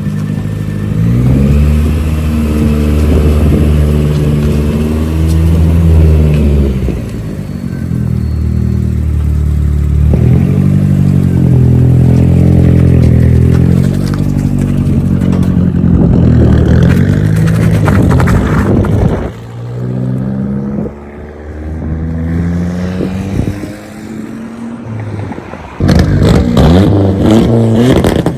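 Turbocharged Nissan Hardbody pickup engine revved hard several times, its note rising and falling in pitch. Near the end comes a rapid string of sharp pops, typical of a two-step launch limiter. The tuner says it barks a lot because the temperature sensor reads too low.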